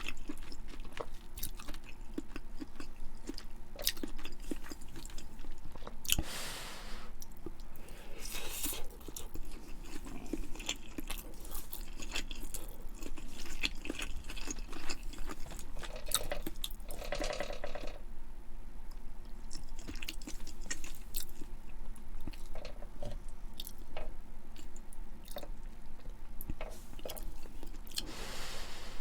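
Close-miked eating: a person chewing food with wet smacks, crunches and many small sharp clicks, plus a few longer rustling or slurping stretches.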